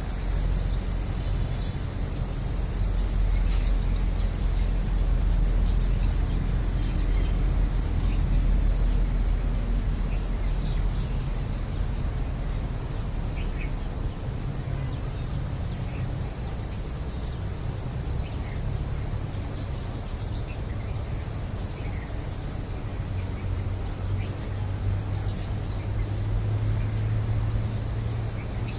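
Outdoor field recording of small birds chirping in short scattered calls over a steady low rumble, which is the loudest sound; the rumble deepens into a steady hum near the end.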